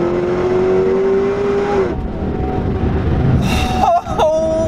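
LSA-supercharged V8 of a Chevy SS accelerating hard, heard from inside the cabin. Its note rises steadily in pitch, then drops off about two seconds in, as at a shift or a lift, and the engine carries on rumbling.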